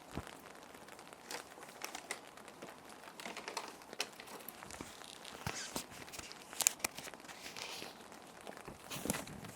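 Plastic sheet protectors crinkling and rustling as paper sheets are slid into them, in irregular crackles with one sharper crinkle about two-thirds of the way through. A soft, steady rain sound runs underneath.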